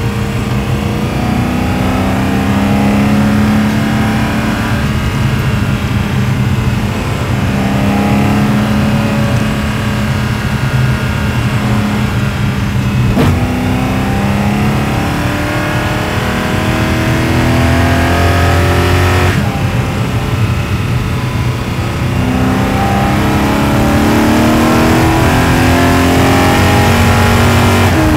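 2009 BMW E92 M3's S65 V8, catless with a straight-piped exhaust, accelerating: the engine note climbs with the revs, drops at a gear change about halfway through and again about two-thirds through, then climbs once more. Heard through microphones on the exhaust and intake plenum, so both exhaust and induction sound are present.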